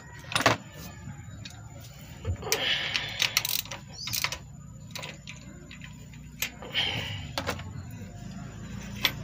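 Hand tools and metal engine parts being handled: scattered sharp clicks and knocks, loudest about half a second in, with a couple of short rasping scrapes, during work on the spark plugs of a multicab's small engine.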